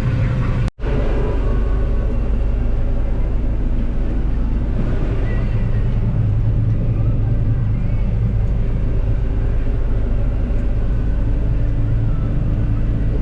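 Combine harvester running with a steady, loud engine drone.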